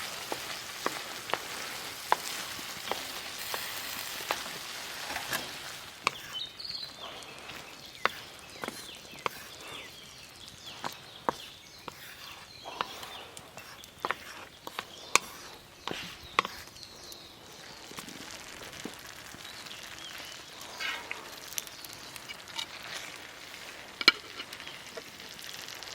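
Food sizzling in a pan over a campfire for the first few seconds, then many scattered sharp clicks and taps.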